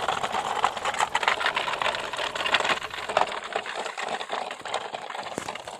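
Plastic toy trucks clattering and rattling as they are pulled over a rough track, a fast, uneven run of small clicks that thins out after about three seconds.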